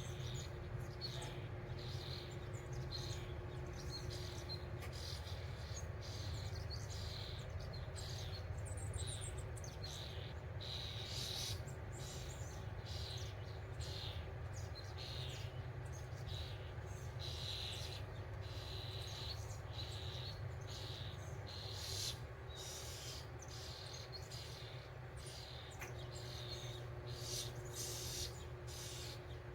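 Small birds chirping, many short, high chirps in quick succession, over a steady low rumble.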